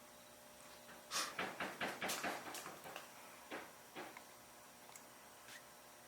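A quick run of light clicks and knocks starting about a second in, followed by a few single taps.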